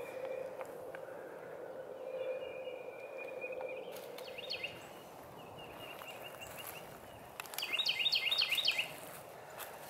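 A small bird sings a quick run of chirping notes about four seconds in, then again louder near the end, over a faint steady hum of outdoor background noise.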